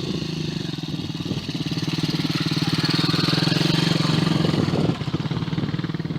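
Motorcycle engine running steadily with a fast, even firing pulse, swelling a little through the middle and easing off about five seconds in.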